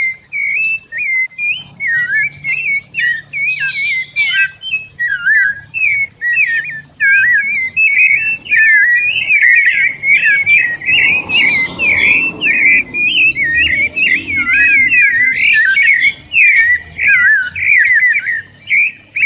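Sabiá thrush (Turdus) singing: a fast, unbroken run of warbling whistled phrases, with thin high notes above them. It is the kind of sabiá 'esquenta' song used to warm up captive birds into singing.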